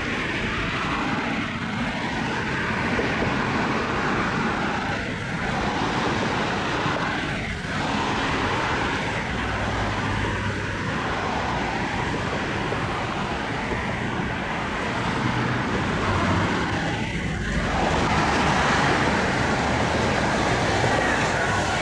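Powerboat engines running at speed past the shore, a continuous loud rush of engine and water noise that swells a little near the end.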